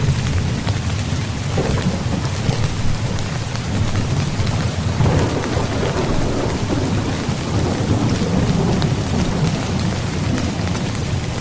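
Steady rain falling on a tent's fabric, with a low rumble of thunder that swells about five seconds in and fades over several seconds.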